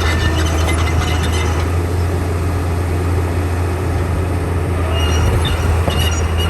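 Komatsu D41P crawler bulldozer's diesel engine running steadily, with metallic clanking from the tracks. The clanking is strongest at the start and again near the end, where a thin, high squeal sets in.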